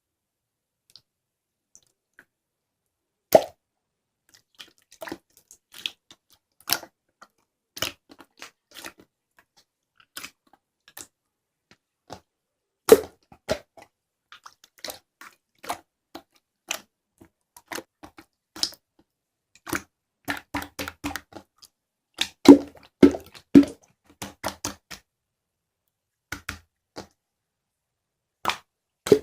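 Clear slime being worked by hand, making irregular wet pops, clicks and squishes, with a few louder pops about three seconds in, around thirteen seconds, and in a cluster a little past twenty-two seconds.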